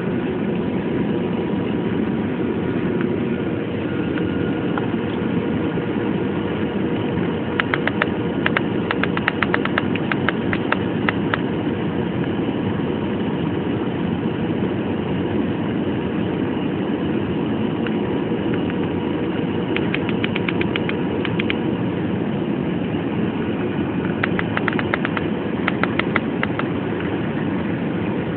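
Steady rushing cabin noise of a jet airliner in cruise, with a faint steady hum. Three short spells of rapid clicks come through it, one about a third of the way in and two near the end.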